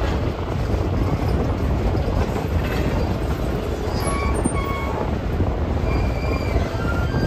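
Passenger train rolling through a curve, heard from the side of one of its coaches: a steady low rumble of wheels on rail, with a few faint, brief wheel squeals in the second half.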